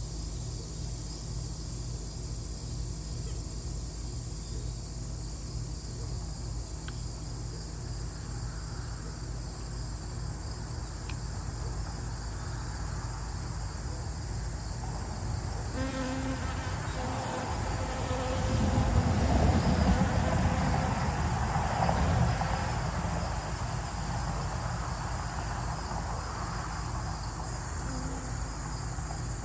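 Steady high-pitched chorus of crickets or similar insects. About halfway through, a louder, lower buzzing sound swells for several seconds and then fades.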